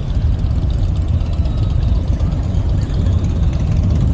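Steady low rumble of motorcycle engines idling and running.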